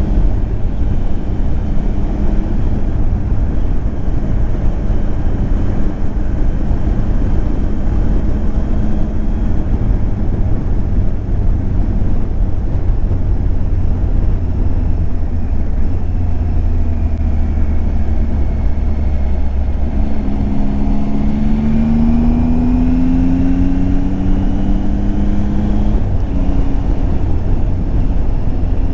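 Triumph Tiger 800 XCX's three-cylinder engine running under way, mixed with the steady rush of riding wind. About twenty seconds in, the engine note rises steadily for several seconds, then drops suddenly.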